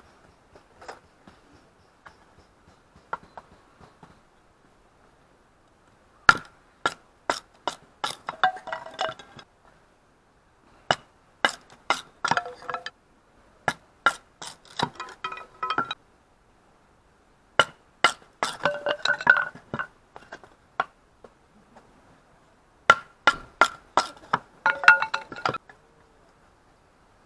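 Metal being struck in five bursts of sharp, ringing clinks, a few spaced strikes running into a quick flurry each time.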